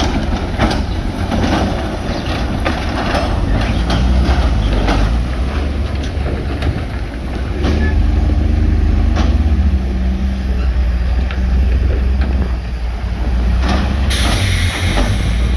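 Heavy diesel earth-moving machinery running under load, a deep engine rumble with scattered knocks and clatter of stone. A loud hiss of air starts about a second and a half before the end.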